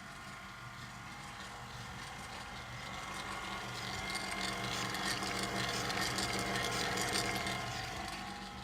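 Small electric kitchen machine running with a steady gear whir, swelling in the middle and easing off near the end.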